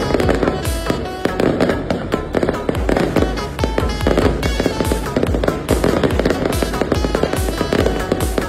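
Fireworks display bursting and crackling in quick succession, mixed with music that has a steady beat.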